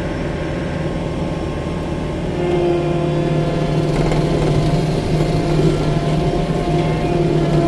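Engine of a 6-ton tracked skid steer (compact track loader) running steadily under throttle, getting louder about two seconds in.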